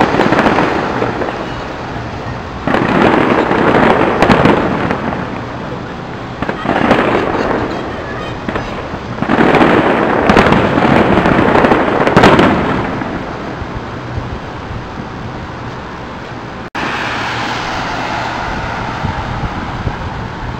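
Fireworks display exploding in three loud volleys of rapid bangs, about three, seven and ten seconds in, with quieter stretches between them. About seventeen seconds in the sound breaks off abruptly into a steady background noise.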